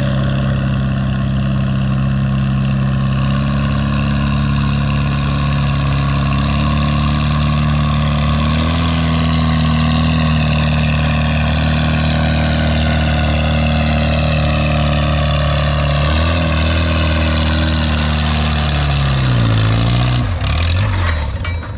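Antique farm tractor engine pulling a weighted sled under heavy load, running steadily at high revs; near the end its note drops as the engine slows and the pull ends.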